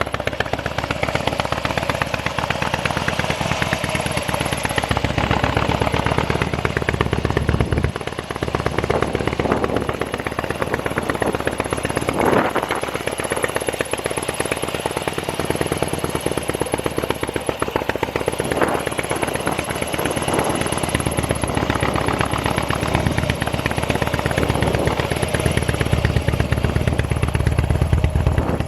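Harley-Davidson Dyna Street Bob's fuel-injected V-twin engine running through aftermarket mufflers, a fast, even exhaust pulse with a few brief rises and dips in engine speed.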